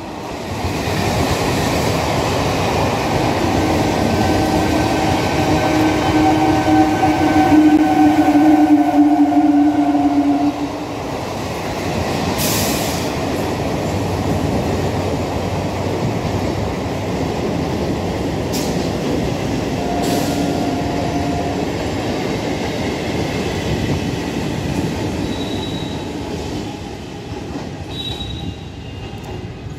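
Electric multiple unit local train passing close at speed: a dense rumble of wheels on rail, with a slightly falling whine in the first ten seconds. The sound then drops to a quieter, steady rumble as the train runs on.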